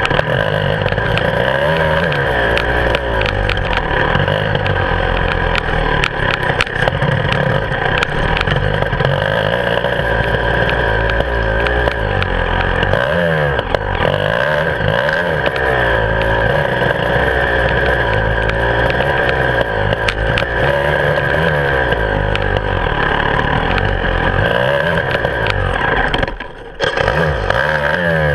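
Beta 300RR two-stroke enduro motorcycle engine revving up and down as it is ridden hard on a dirt track, heard close from the handlebars, with frequent short knocks and rattles. The engine note drops away for about a second near the end, then picks up again.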